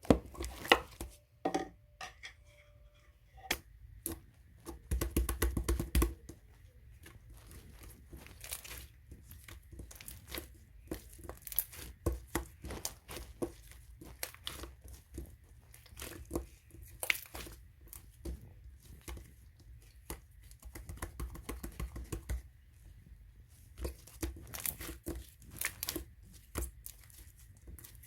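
Irregular crinkling and rustling handling noises with many scattered clicks and light knocks, a louder burst of rustling about five seconds in.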